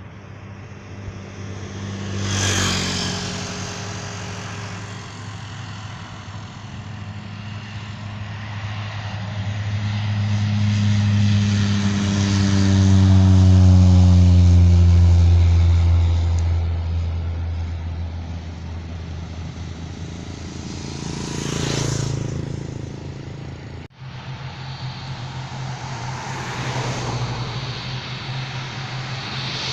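Propeller airplane passing by: its engine drone swells to a peak about halfway through and then fades as its pitch slides down. Three short whooshes of something passing close cut through, one near the start and two in the last third.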